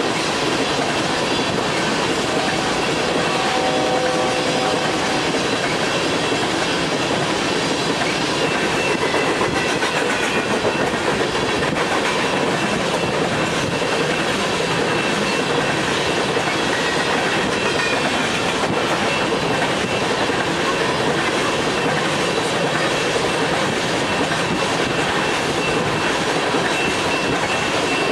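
BNSF freight train of hopper cars rolling past at speed, the wheels running steadily on the rails in a constant, even rumble.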